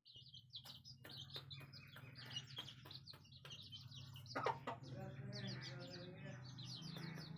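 Chicks peeping rapidly and continuously in high, short notes, with a hen clucking softly from about halfway through. A steady low hum runs underneath.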